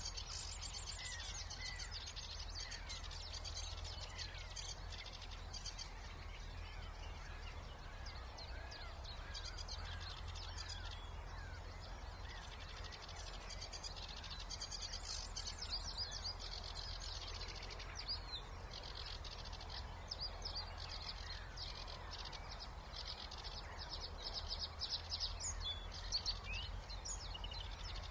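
Several birds singing at once in a spring wetland chorus: fast, chattering, buzzy song high up, with softer whistled notes below. A steady low hum of background noise pollution runs underneath.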